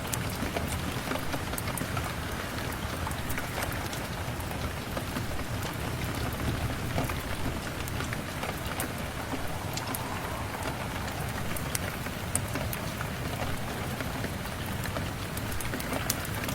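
Steady rain falling on a surface, an even hiss with many scattered sharp drop ticks.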